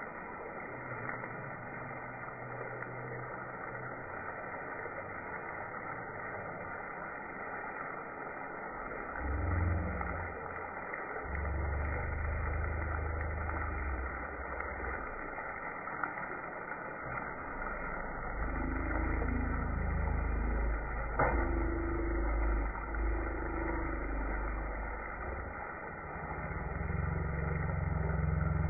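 Steak and diced onions frying in a pan, a steady sizzle, with low rumbles of handling now and then.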